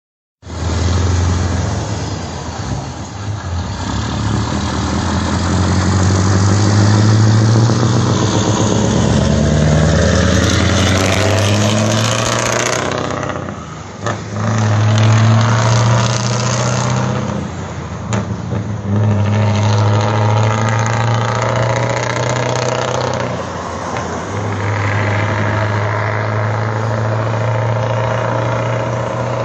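Modified Scania truck's diesel engine accelerating hard. The engine note climbs steadily for about ten seconds, then drops briefly three times as it shifts up through the gears, pulling again after each shift.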